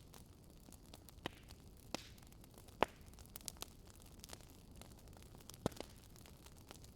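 Wood fire crackling: irregular sharp pops and snaps over a soft steady hiss, with the loudest pops about three seconds and six seconds in.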